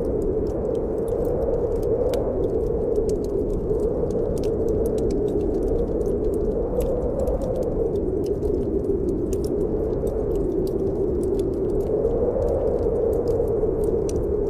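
Snowstorm wind blowing steadily, its tone slowly rising and falling, with frequent small crackles and pops from a wood fire burning in a fireplace.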